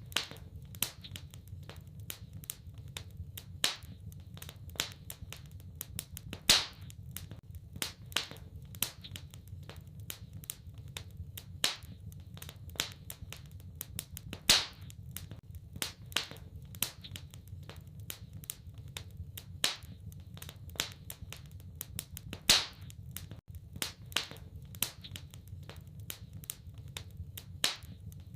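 Wood fire crackling in a fireplace: irregular sharp pops and snaps, with a few louder cracks, over a low steady rumble.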